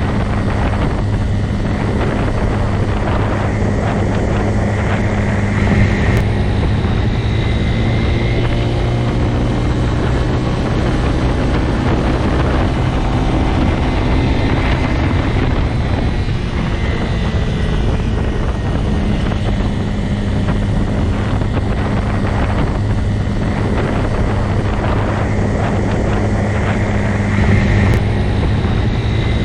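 Motorcycle engine running at a steady, even pitch, a continuous drone with no revving or gear changes.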